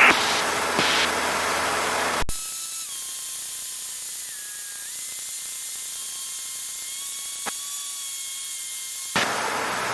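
Steady cabin noise of a Cessna 152 in flight, engine and airflow heard through the headset intercom. About two seconds in, a sharp click cuts it to a quieter hiss with a few faint steady whistling tones that shift in pitch. The louder noise returns near the end.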